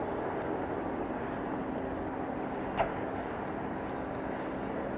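Distant Qantas Boeing 747's four jet engines, a steady rumble and hiss as the airliner approaches. A brief high chirp cuts in about three seconds in.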